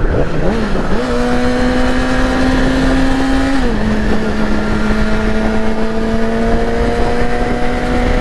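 2008 Yamaha R6's inline-four engine under way at high revs. Its pitch climbs back up about a second in and holds, then steps down a little before the middle as it shifts up a gear and rises slowly again. Wind rushes over the microphone throughout.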